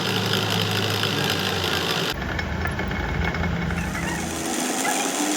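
Machinery running with a steady low hum, its sound changing abruptly about two seconds in.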